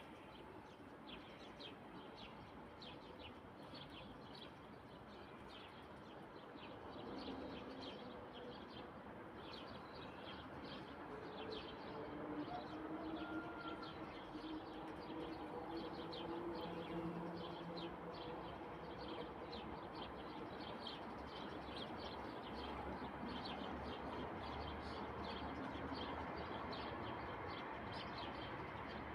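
Many small birds chirping continuously in quick, high notes. Lower, drawn-out calls come in for several seconds in the middle.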